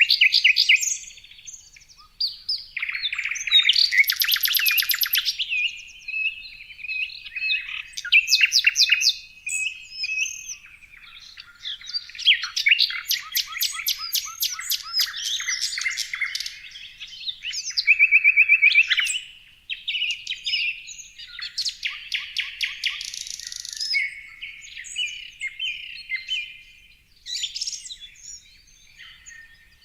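Several songbirds singing and chirping over one another, with rapid trills, whistled notes and quick chirp series following each other with short gaps.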